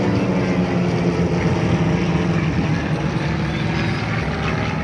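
Formation of homebuilt single-engine propeller aircraft flying past, a steady engine drone whose pitch sinks slightly as they go by.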